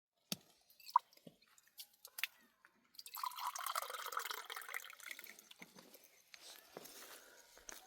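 A few sharp clicks and knocks, then water poured out and splashing for a few seconds, fading away.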